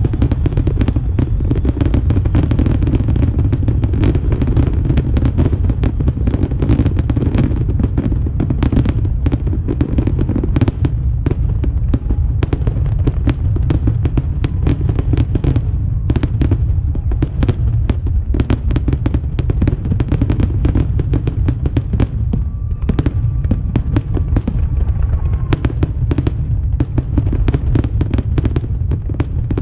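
Fireworks finale barrage: a dense, rapid string of cracks and bangs from shells and ground mines going off over a steady low rumble. A faint thin whistle is heard for a few seconds past the middle.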